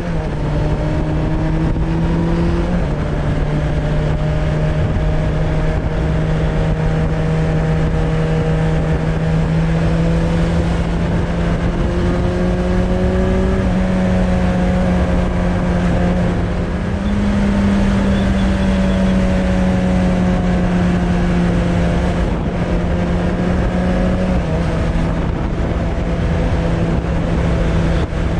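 Suzuki Bandit 600's inline-four engine running through a Hashiru aftermarket exhaust at steady riding revs. The engine note holds level, dropping a little about three seconds in, rising twice in the middle and dropping again near the end.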